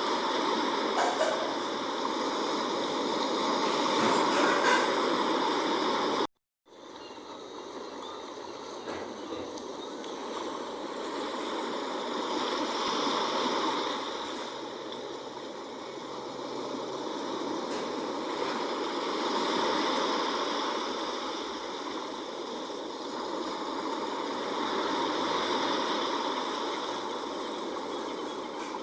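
Sea waves washing in, the noise swelling and easing off every six or seven seconds. About six seconds in the sound cuts out completely for a split second, then returns.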